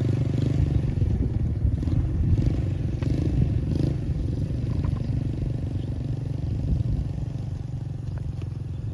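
A small engine running with a steady low rumble that starts abruptly and eases off slightly toward the end.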